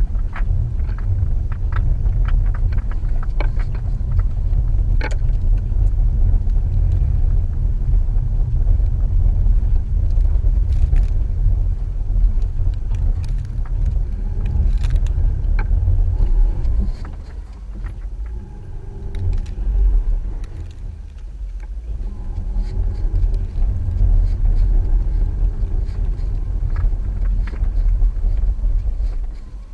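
Subaru XV Crosstrek driving through snow: a steady low rumble of engine and tyres with scattered clicks and knocks. It eases off for a few seconds past the middle, then builds back up.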